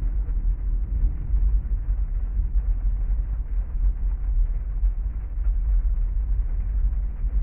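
Heavy rain drumming steadily on a parked car, heard from inside the cabin as a dense, even wash with a deep low rumble.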